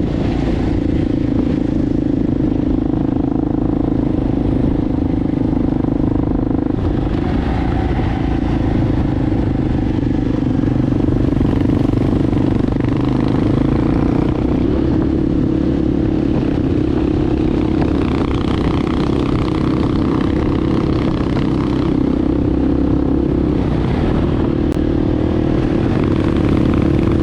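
Enduro motorcycle engine running at a fairly steady pitch while riding, with some rattling from the bike.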